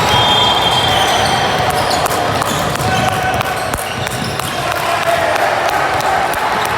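Basketball game in a gym: a ball bouncing on the court amid echoing voices of players and spectators, with a short high squeak in the first second.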